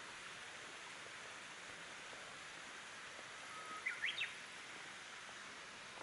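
Steady, quiet outdoor background hiss. A little before four seconds in, a short bird call sounds: a brief flat note, then a few quick rising chirps.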